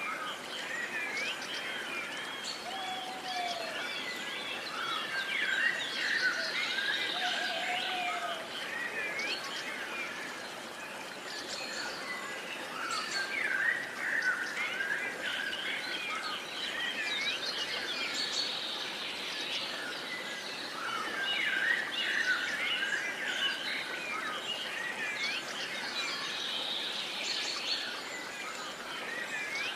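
Dawn-chorus-like mix of many songbirds chirping and singing at once over a steady background hiss. A few lower whistled calls sound in the first eight seconds.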